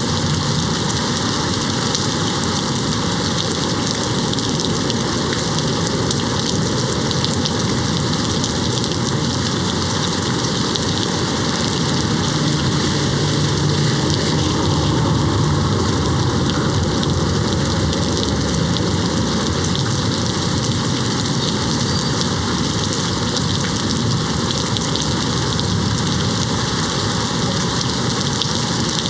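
Steady rain falling and hitting a window pane in an even hiss, with a low rumble of distant thunder swelling around the middle.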